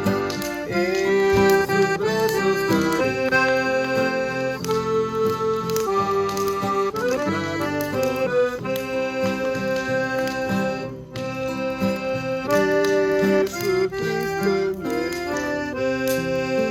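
Accordion playing an instrumental tune: a melody of sustained reedy notes over held chords, with a brief break about eleven seconds in.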